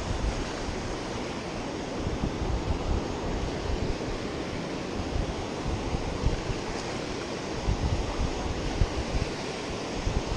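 Surf washing onto a sandy beach, a steady rush, with wind buffeting the microphone in irregular low gusts.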